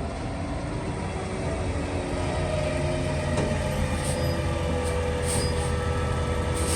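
Garbage truck's diesel engine running, growing louder about two seconds in, with a steady whine above it and a couple of short hisses.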